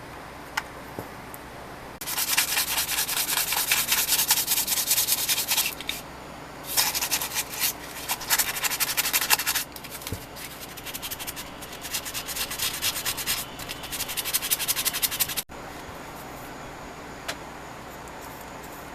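Hand abrasion on the metal of an old wrench, in rapid back-and-forth rubbing strokes. The rubbing comes in four runs of a few seconds each with short pauses between them, then cuts off abruptly, leaving faint room hiss and a couple of small clicks.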